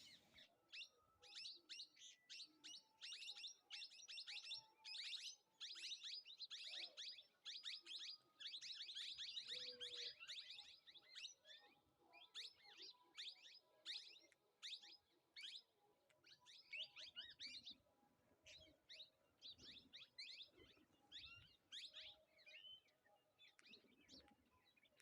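Small birds chirping, a rapid run of short, high chirps repeated over and over, thickest in the first half and growing sparser toward the end.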